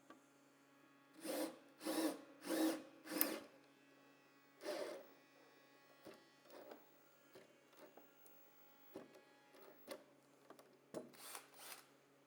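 Power drill driving screws into wood in short bursts: four quick bursts, another a moment later, then light knocks and clicks and two more short bursts near the end.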